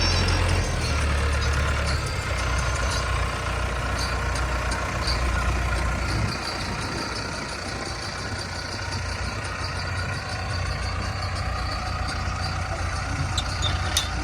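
Heavy diesel engine running steadily with a low rumble that eases a little about six seconds in.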